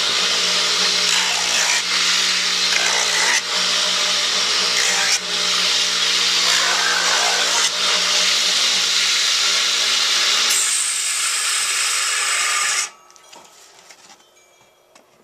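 Electric power tool running under load, removing material, with a steady motor tone under a loud hiss. The sound changes about ten and a half seconds in and stops suddenly about two seconds later, leaving a few faint clicks.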